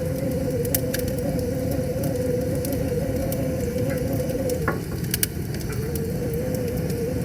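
Wood fire crackling with scattered sharp pops, a few louder ones about five seconds in, over a steady low rush of river water and a wavering hum.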